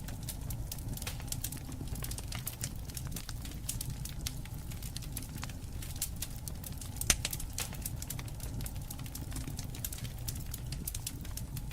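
Wood fire crackling with dense, irregular pops over a low steady rumble, and one sharper, louder pop about seven seconds in.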